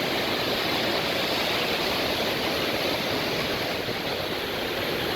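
Large waterfall crashing steadily, an unbroken loud rush of falling water and spray.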